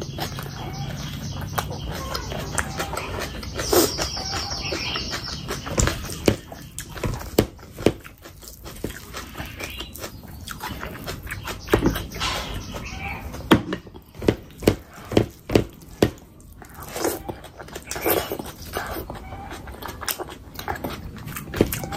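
Close-up chewing and wet lip-smacking of a mouthful of chicken biryani eaten by hand, in irregular clicks and smacks, with rice squished and mixed by hand on the plate.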